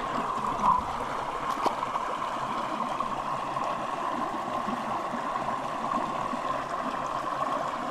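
Creek water flowing steadily, with a couple of faint clicks about a second in.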